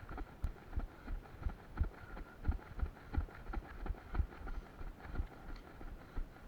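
A runner's footfalls jogging steadily, about three thumps a second, heard close to the microphone.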